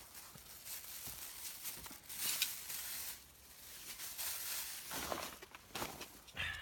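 Rustling and crinkling handling noises, with a few longer scraping bursts and small clicks at uneven intervals.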